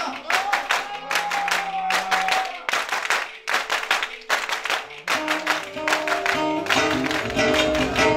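Live instrumental music with held melody notes, and a crowd clapping along in a steady rhythm.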